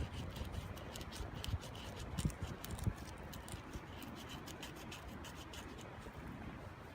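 Wood fire crackling in a small camp wood stove, with many quick sharp snaps and pops over a steady hiss. A few dull knocks come between about one and a half and three seconds in.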